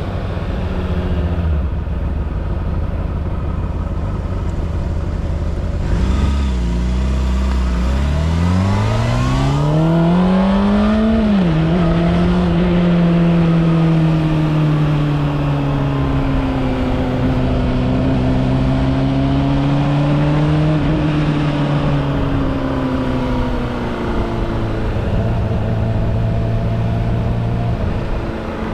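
Honda CBR600RR inline-four motorcycle engine running: steady at first, its pitch rising smoothly a third of the way in as it revs up, then holding at raised revs before easing back down near the end.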